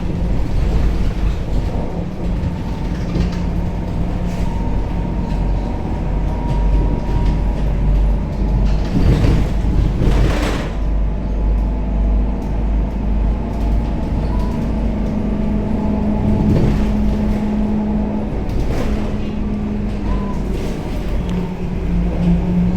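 Scania K270UB city bus under way, heard from inside the cabin: a steady engine and road drone with faint whining tones that shift in pitch as it drives, and two short rattling bumps about nine and ten seconds in.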